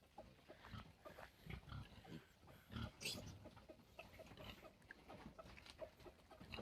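Faint pig grunts and snuffling, scattered and irregular.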